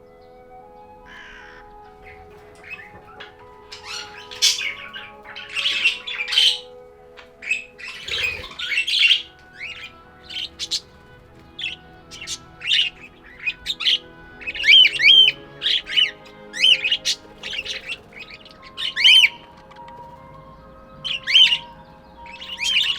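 Budgerigars chirping and squawking in many short, quick calls, some of them loud, over soft background music with long held notes.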